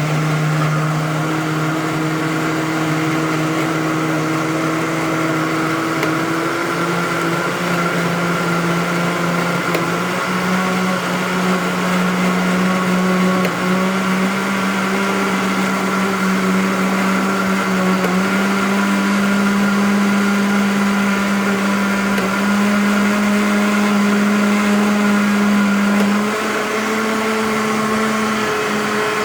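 Walita Delta Selector blender running continuously with a steady motor whine. Its pitch steps up abruptly a few times, about a quarter of the way in, about a third in, past the middle and near the end.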